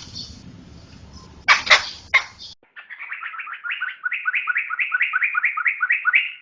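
Poksay (laughingthrush) song: a couple of loud, sharp calls near the start, then after a brief break a fast run of repeated two-part notes, about five a second.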